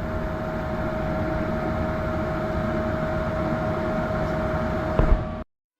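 Gas furnace running with its burners lit: a steady rushing noise with a steady whine through it. A knock or two near the end, then it cuts off abruptly.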